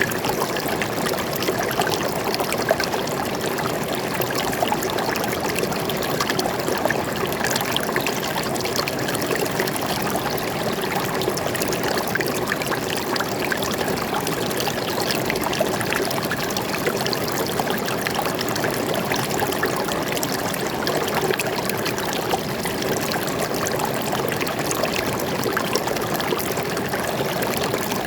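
Stream of water flowing steadily over rocks, a dense burbling and trickling with no pauses.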